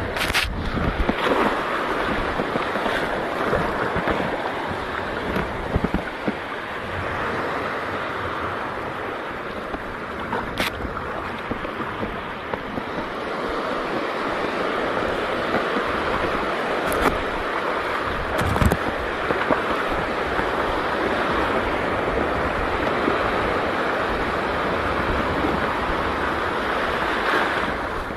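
Steady wash of shallow sea water, with wind buffeting the microphone and a few brief clicks.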